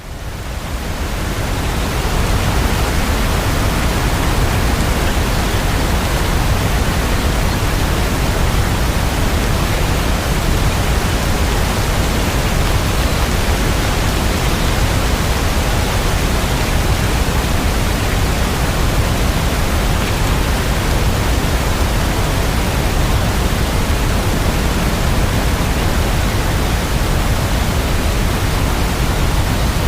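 Rain falling steadily, an even hiss that fades in over about the first two seconds.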